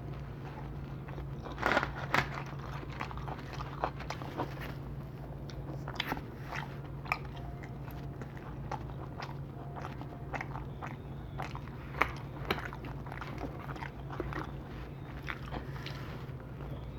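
Close-miked chewing and biting of Domino's pizza, with irregular crunchy bites and wet mouth clicks over a steady low hum. The loudest crunches come about two seconds in and again about twelve seconds in.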